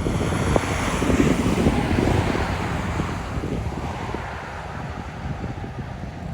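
Gusty wind rushing and buffeting the microphone, strongest in the first few seconds and easing after.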